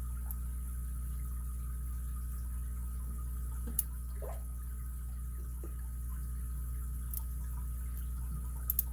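Lock picks working the pin stack of a high-security padlock: a few sharp, faint clicks, one about four seconds in and two close together near the end, over a steady low hum.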